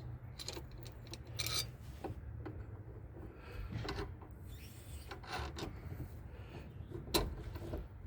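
Hand-tool work on metal car parts: intermittent scraping and small clicks, with a sharper knock near the end.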